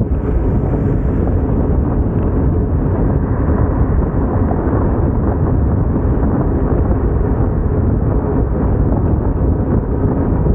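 Wind buffeting the microphone: a loud, steady low rumble that runs without a break.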